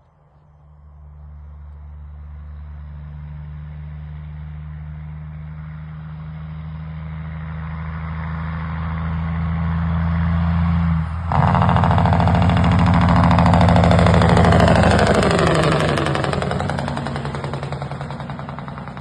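Straight-piped Caterpillar 3406E inline-six diesel in a Kenworth W900, approaching and growing steadily louder. About eleven seconds in its jake brake cuts in with a sudden, loud, rapid barking from the exhaust. The pitch drops as the truck passes, and the sound fades.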